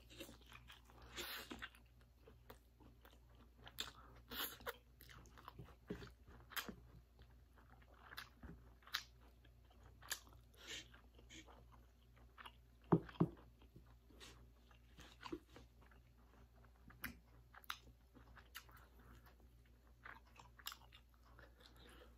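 A person slurping in spicy instant noodles and chewing them close to the microphone, with many short wet mouth clicks and smacks. There is a hissy slurp about a second in and two louder smacks a little past halfway.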